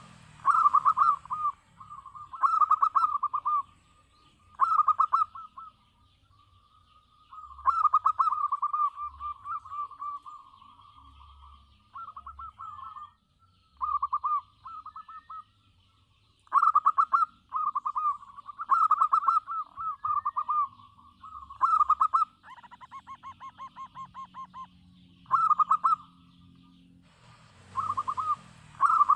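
Zebra dove (perkutut) cooing: a dozen or so rapid, trilled phrases at a steady pitch, separated by short pauses.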